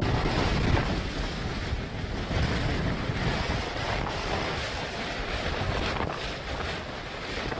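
Strong wind blowing over the microphone: a steady, dense rushing noise with no break.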